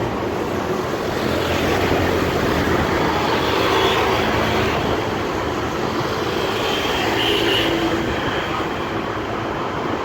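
Steady road noise of vehicle engines and tyres, with no breaks, swelling a little twice.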